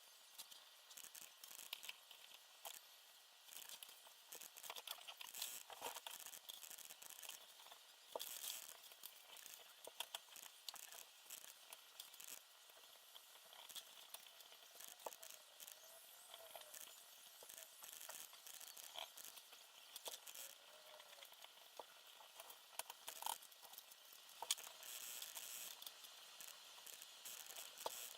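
Faint, irregular small clicks, taps and rustles of small parts and tools being handled, with no steady machine sound.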